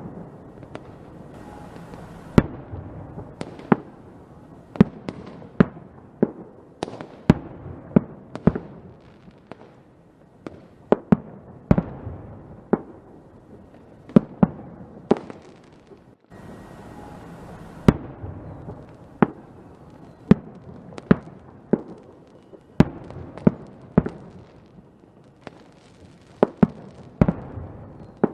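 Fireworks going off in a steady barrage: sharp bangs and cracks every half second or so, each with a short echoing tail, over a continuous rumble. The sound drops out for an instant about halfway through and then resumes.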